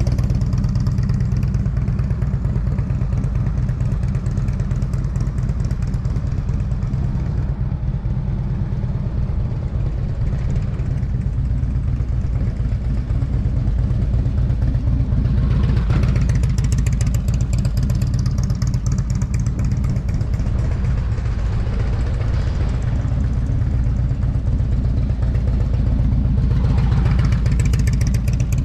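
Motorcycle engine running as the bike is ridden around, louder as it passes close about halfway through and again near the end, over a steady low rumble.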